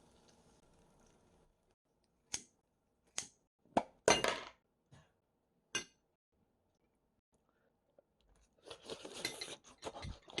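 Half a dozen sharp clinks and knocks of utensils against dishes, the loudest about four seconds in, then a stretch of dense crunching near the end.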